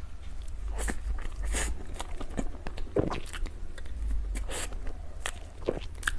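A person biting into and chewing dessert close to the microphone, mukbang-style: irregular wet mouth clicks and smacks, several a second, over a low steady hum.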